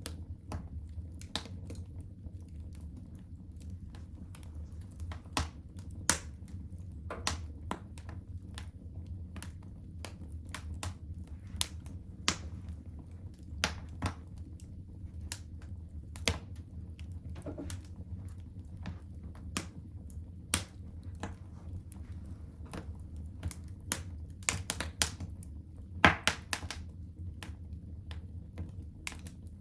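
Wood fire burning in a fireplace, crackling and popping at irregular intervals over a low steady rumble of the flames, with one louder snap about 26 seconds in.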